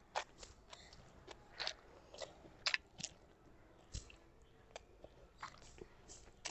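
Close-up chewing of a mouthful of rice and curry: a string of irregular wet mouth clicks and smacks, about one or two a second.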